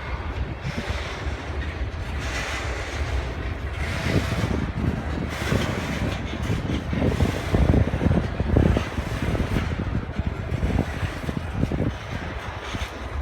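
A train running past on the tracks, a low uneven rumble that swells about halfway through, with wind buffeting the microphone.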